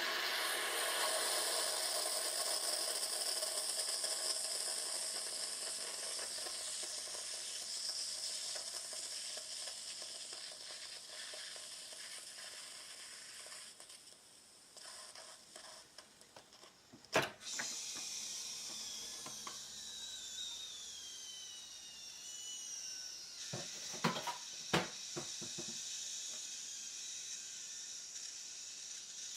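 Bosch Tassimo Vivy capsule coffee machine brewing: a steady hiss of hot water and steam that fades out about halfway through. Then come a few sharp clicks and a quieter hiss with a falling whistle.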